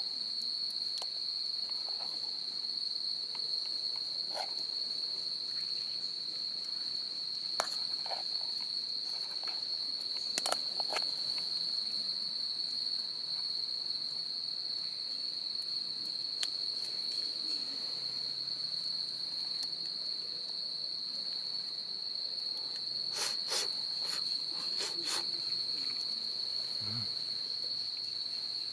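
Crickets trilling steadily at one high pitch, with a few sharp clicks about a third of the way in and a small cluster of them near the end.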